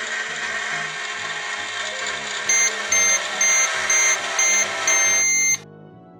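Toy microwave running with a steady hum, then its finished signal: five short beeps about two a second and a longer final beep, after which it cuts off suddenly. Soft background music plays underneath.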